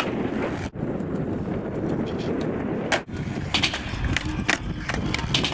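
Skateboard wheels rolling over pavement in a steady rumble, briefly cutting out twice, with a run of sharp clicks and knocks in the second half.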